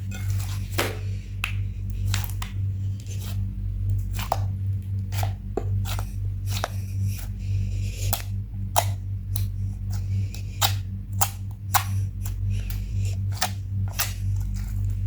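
Slime being squeezed and kneaded by hand, giving irregular wet clicks and pops several times a second, over a steady low hum.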